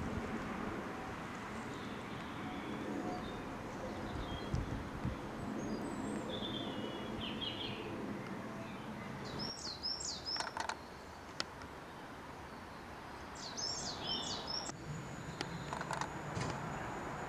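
Small birds chirping in short high clusters three times, over a steady low background rumble that eases about halfway through.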